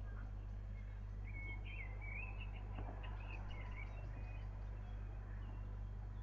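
A bird chirping, a short twittering run of rising and falling notes between about one and three and a half seconds in, over a steady low hum.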